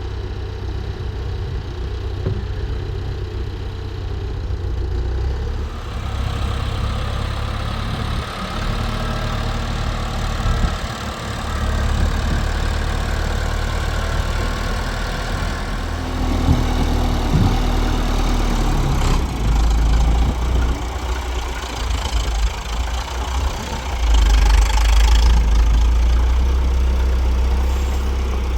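Tractor engine running with a steady low rumble. About six seconds in a rougher, noisier layer joins it, and near the end the engine gets louder for a couple of seconds.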